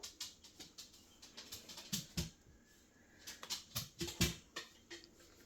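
Light handling noise: a scatter of irregular small clicks and taps, a few with a dull knock.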